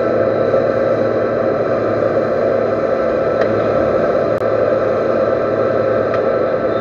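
Metal lathe running steadily, with a constant machine hum.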